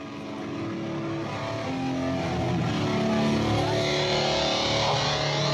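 Distorted electric guitars and bass holding long sustained notes that shift pitch every second or so, swelling steadily louder as a live rock song opens.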